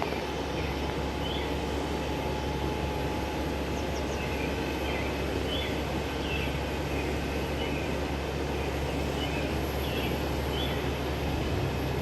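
Embraer ERJ-145 regional jet's twin turbofan engines running with a steady distant rumble. A faint whine fades out over the first few seconds.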